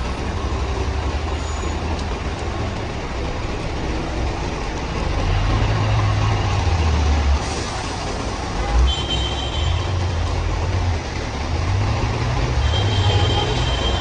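Heavy rain falling on a city street, under the low rumble of passing heavy traffic that swells and fades. A thin, high squeal comes in about two-thirds of the way through and again near the end.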